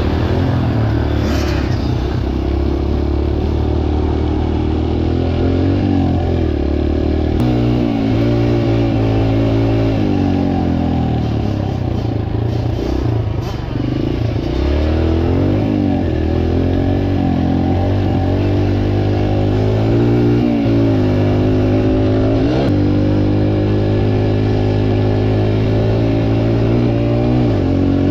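Dirt bike engines running, revving up and down over and over.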